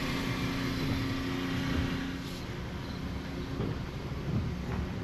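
Vehicle engine running steadily with a low hum. A little past two seconds in, the hum thins to a rougher rumble and there is a brief click.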